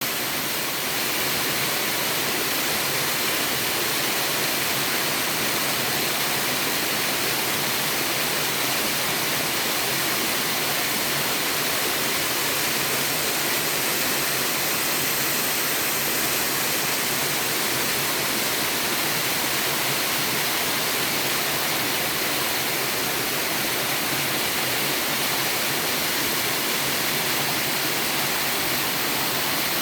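Waterfall in a mountain valley stream: a steady, unbroken rush of falling water, heavy in hiss.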